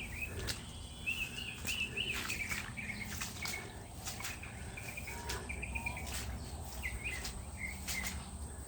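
Birds chirping and warbling in short phrases over a steady, high, thin insect drone, with a few faint clicks.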